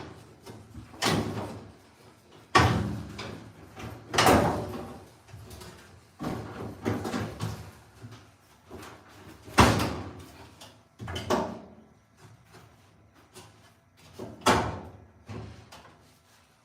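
A series of about eight sharp knocks and bangs, each ringing out briefly, spaced irregularly a second or two apart: hard objects being handled and set down, typical of a dryer cabinet being worked on.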